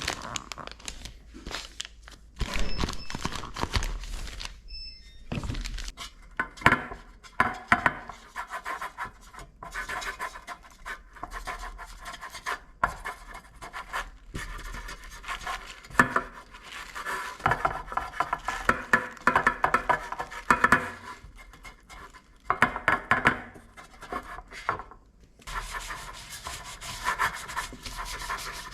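Irregular scraping and rubbing, broken by frequent sharp knocks.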